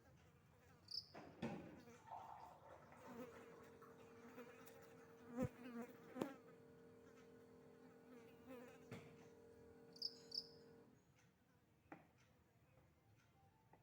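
Faint, steady buzzing hum that stops about eleven seconds in, with a few light knocks and clicks over it.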